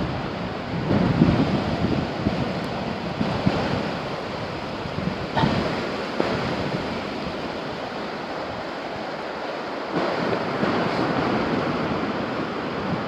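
Steady rushing of flooding water swollen by heavy rainfall, with wind buffeting the microphone. The level shifts abruptly about five and ten seconds in.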